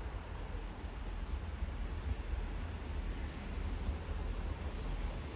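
Class 158 diesel multiple unit approaching at a distance: a low, unsteady rumble that grows slightly louder, with a few faint high bird chirps.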